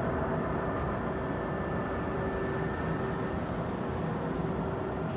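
Jet airliner engines running steadily at an airport, a continuous rumble with a faint high whine.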